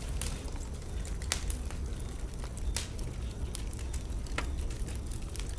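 Wood bonfire crackling: irregular sharp pops of burning wood over a low, steady rumble.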